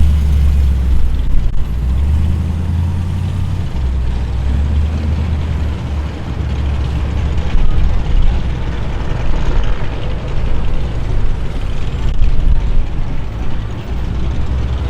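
Deep, loud engine rumble of performance cars driving slowly past at low speed, swelling and easing in loudness.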